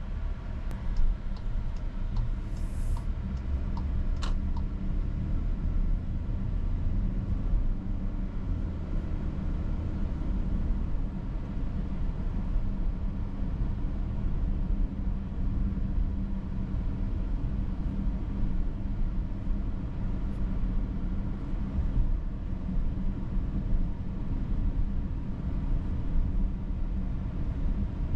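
2022 Volkswagen Atlas heard from inside the cabin while driving: a steady low rumble of engine and road noise, with a few small clicks and a short hiss in the first few seconds.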